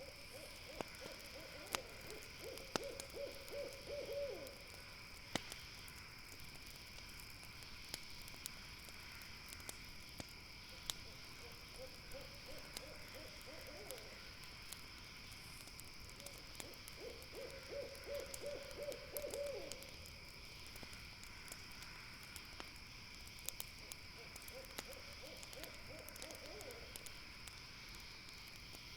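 An owl calling in four bouts of rapid, even hoots over the night forest. Sharp crackles from a campfire are scattered throughout and are the loudest moments. A steady high chirring of night insects runs underneath.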